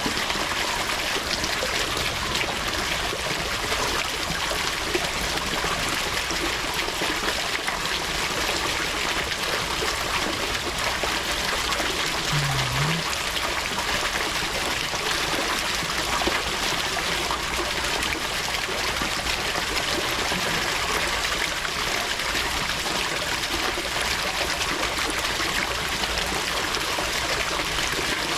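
Water running in a steady trickling stream.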